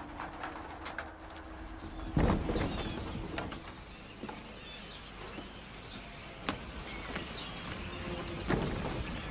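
Birds chirping, starting with a thump about two seconds in, with a few faint knocks later on.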